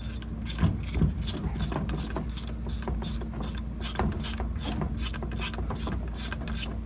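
Ratchet wrench clicking in an even rhythm, about three clicks a second, as it is worked back and forth on the parts of a brake booster being taken apart. A couple of louder knocks come about a second in, over a steady low hum.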